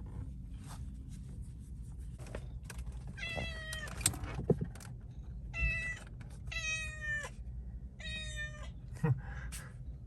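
A stray cat meowing four times, each meow sliding down in pitch at its end. A few sharp knocks fall between the meows, over a steady low rumble.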